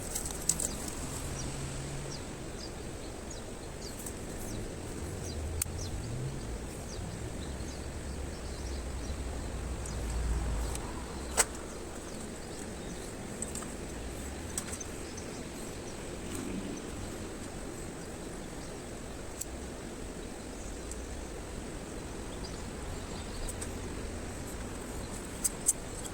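Wood campfire burning, with scattered small crackles and one sharp pop about eleven seconds in, over a steady low rumble.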